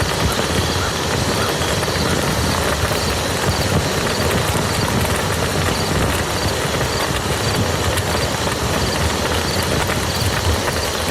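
Steady rain falling on a muddy field: an even hiss with a dense patter of drops.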